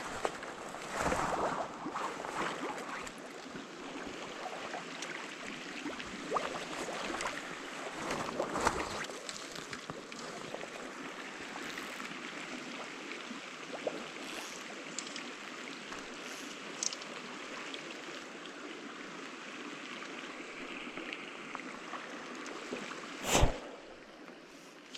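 Steady rush of a small rainforest stream flowing over rocks, with a few brief louder scuffs early on and one sharp thump near the end, the loudest sound.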